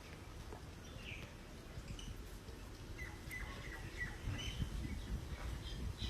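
Small parrots chirping faintly: short, scattered chirps that come more often from about three seconds in, over a low rumble.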